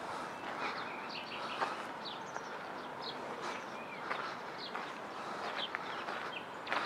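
Small birds chirping in the trees: many short, quick calls throughout, over a steady outdoor background, with a few footsteps on a sandy path.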